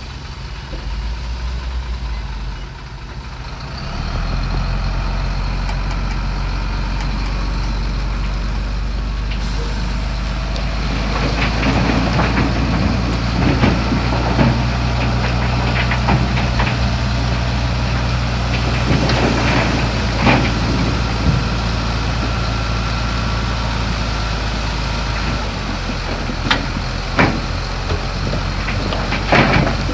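Heavy diesel earthmoving machinery running, a crawler bulldozer and dump trucks working fill. The engine gets louder about four seconds in, and from about eleven seconds on there are repeated sharp clanks and knocks.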